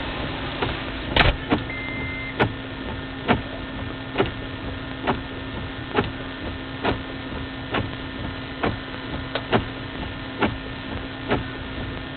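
Steady car engine and road noise inside a vehicle, with a sharp regular tick a little faster than once a second. There is a louder knock just over a second in and a short high beep around two seconds in.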